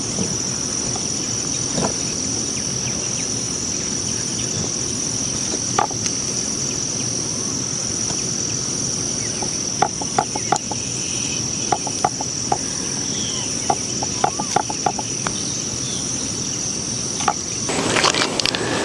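Insects trilling steadily and high-pitched over a constant even background hiss. Scattered short clicks come through the middle, and a louder rustling noise starts near the end.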